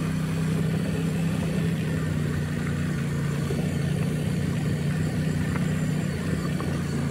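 Royal Enfield Continental GT650's parallel-twin engine running steadily while the motorcycle rides along, heard from the bike itself.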